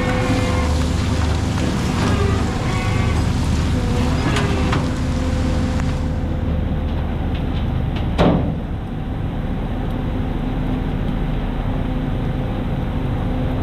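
Prawn trawler's engine running with a steady low drone, with a single sharp knock about eight seconds in.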